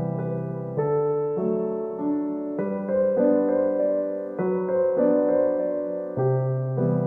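Gentle solo piano music, with soft chords and a slow melody.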